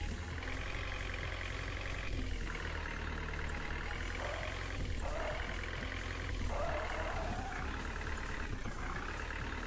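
Tractor engine running, with a steady deep rumble, and a wavering higher-pitched sound above it that swells and fades every second or two.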